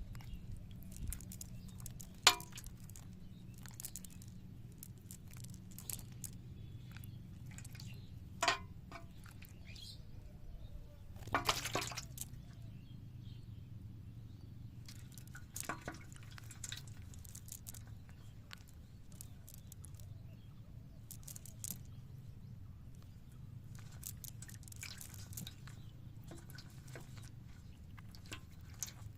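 Scattered small water splashes and drips, with a few sharper ones and a longer splashy patch about twelve seconds in, over a low steady hum.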